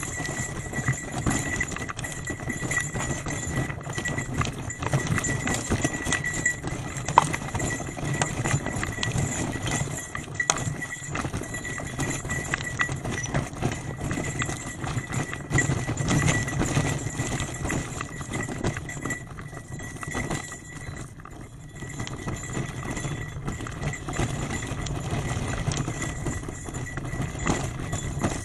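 Bicycle rattling over a rough forest road, a continuous irregular clatter with tyre noise, and a steady high tone running under it.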